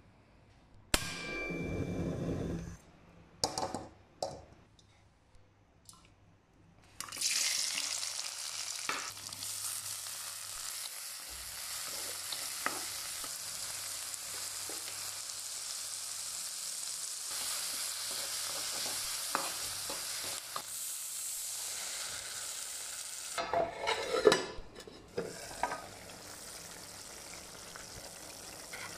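Sliced onions and tomatoes sizzling in oil in a pan: a steady frying hiss. A spatula stirs and scrapes against the pan with a few loud clatters near the end. A few short knocks come before the sizzling starts.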